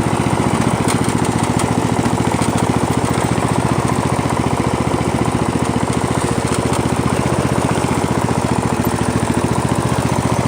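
Poulan lawn tractor's engine running steadily with an even, rapid firing rhythm while the tractor is driven, on its first run after sitting since the previous September.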